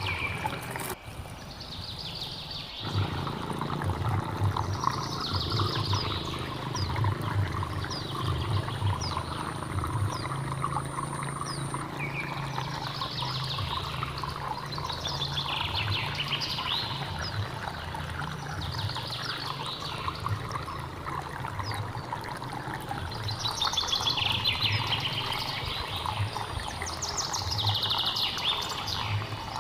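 Stream water running steadily with a gurgling undertone, while birds call over it in repeated short phrases every few seconds. The water sound drops out briefly about a second in, then comes back.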